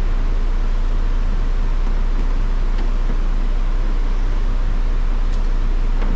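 Steady low background hum with a couple of faint light clicks.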